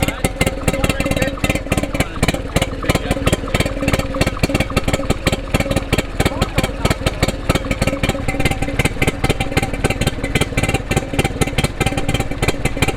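1950s Stuart P55MR twin-cylinder two-stroke marine engine running steadily, a rapid, even train of firing pulses.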